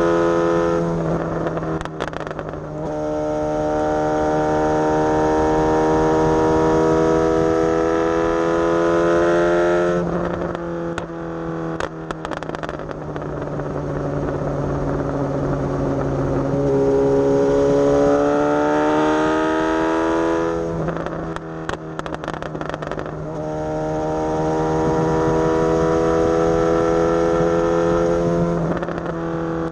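Suzuki GSX-S750's inline-four engine running under way, its pitch climbing steadily through each gear. The note breaks off a few times as the rider shifts or rolls off the throttle.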